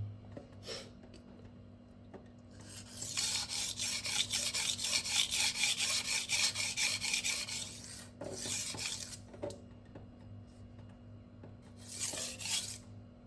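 Kitchen knife blade being stroked back and forth on a Venev diamond sharpening stone, a gritty rasping scrape. A run of quick strokes for about five seconds, then two short runs near the end.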